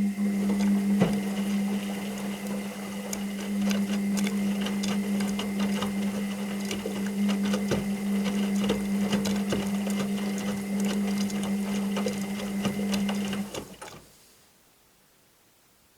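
Washing machine running: a steady motor hum with dense clicking and rattling, cutting off about 14 seconds in.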